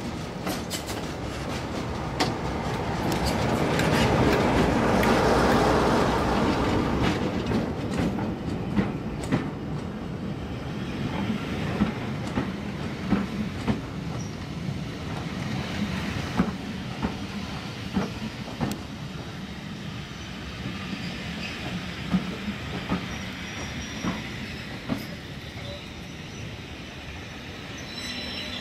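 Diesel-hauled train passing, loudest about five seconds in, then its carriage wheels clicking sharply over the rail joints as the coaches roll by, with a faint squeal from the wheels near the end.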